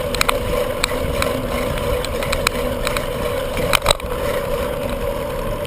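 Riding a bicycle on a city road: wind rushing on the microphone over a steady drone from the moving bike, with scattered light clicks and rattles and a sharper clatter about four seconds in.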